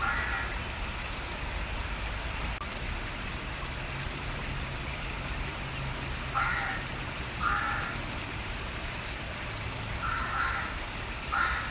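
A crow cawing: five short, harsh caws spaced irregularly, two of them near the end. Steady running water sounds underneath.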